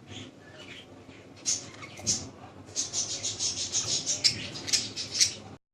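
Small pet parrots chirping: a few scattered chirps, then a quick run of sharp high chirps at about four or five a second in the second half. The sound cuts off suddenly near the end.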